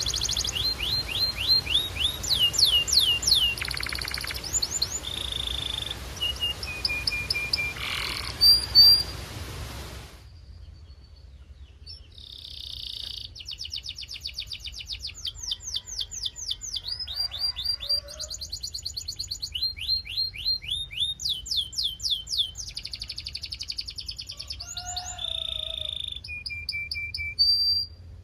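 Canary singing: fast trills of repeated, steeply gliding notes mixed with a few short held whistles. The song stops briefly about ten seconds in and starts again a couple of seconds later.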